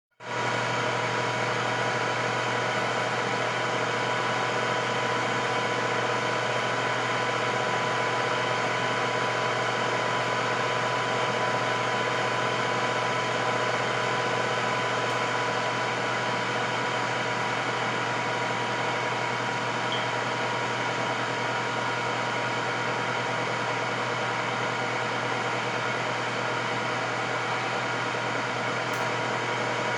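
Electric air fryer running: a steady fan hum with a constant whine over it, unchanging throughout.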